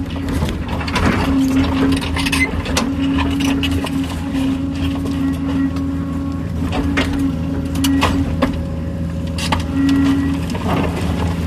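Kobelco excavator's diesel engine running steadily under working load, with a hum that swells and fades several times and scattered sharp knocks and clanks.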